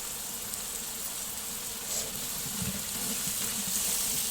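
Onion and tomato masala frying in hot oil in a pot, a steady sizzling hiss that grows slightly louder.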